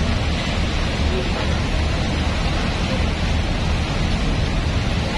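Steady low rumble of a fast passenger boat's engines under way, with a continuous rush of wind and water noise over it.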